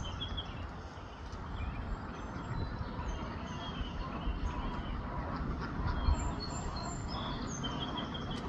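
Birds chirping, many short high calls over a steady low rumble, with a brief thump about six seconds in.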